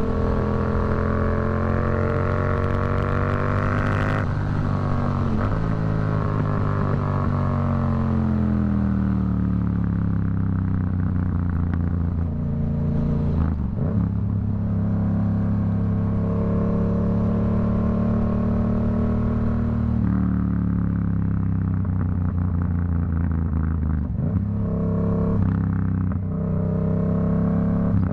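Yamaha MT-07's crossplane parallel-twin (CP2) engine through a Black Widow aftermarket exhaust, riding under load. It rises in pitch while accelerating, then breaks sharply at a gear change about four seconds in. It falls slowly off the throttle, then climbs again through further gear changes, with several quick shifts near the end.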